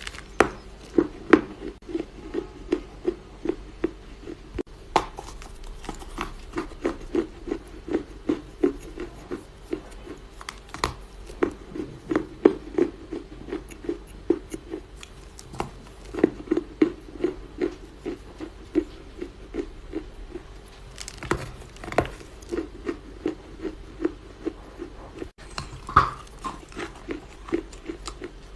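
Soft crunching of dry Chinese loess clay: a steady rhythm of about three muffled crunches a second, with occasional sharper cracks.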